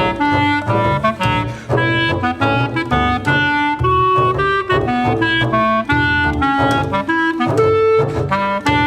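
Clarinet and double bass playing contemporary chamber music: the clarinet plays a quick stream of short notes that jump about in pitch over a continuous low line from below.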